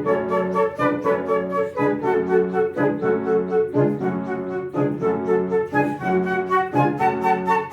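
Flute music with piano accompaniment: the flute plays a melody over a steady pattern of chords, with notes changing about twice a second.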